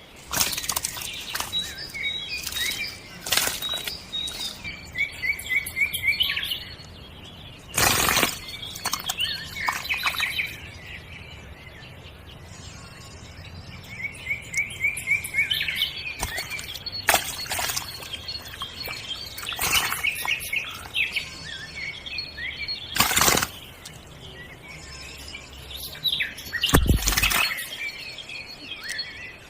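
Small birds chirping and twittering in short repeated trills, with several brief, sharp knocks or splashes now and then.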